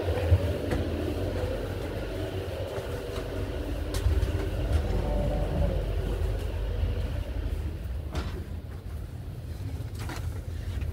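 Passenger train heard from inside the carriage: a steady low rumble and hum from the train, with a few short knocks and clicks scattered through.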